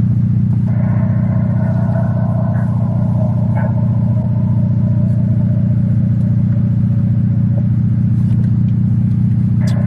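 Car engine running steadily at idle, a low, even drone heard from inside the cabin.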